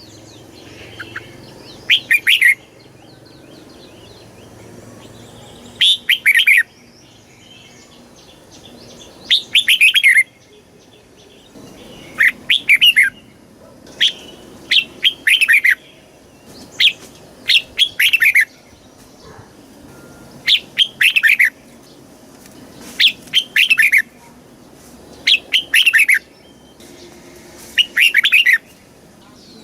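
Red-whiskered bulbul singing: short, bright phrases of quick, bouncing notes, repeated every two to three seconds.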